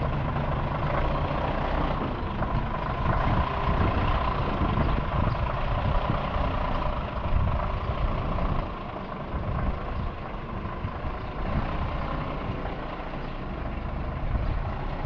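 Truck engine running steadily, a little quieter from about nine seconds in.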